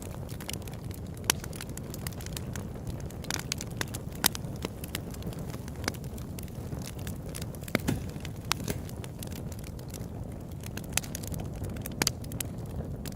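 Open-air campfire crackling: a steady low rush of burning wood with frequent sharp pops and snaps, a few of them louder than the rest.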